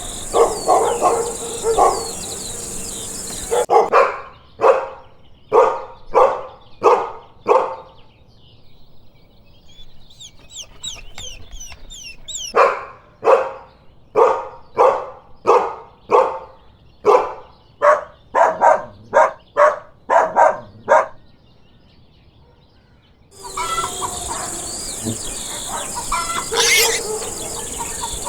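Dog barking in repeated runs of about two barks a second, with a pause of a few seconds between the runs.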